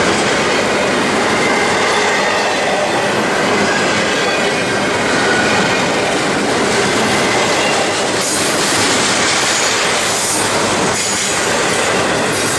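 Railroad cars rolling past on the track: a steady noise of wheels on rail with faint high wheel squeal.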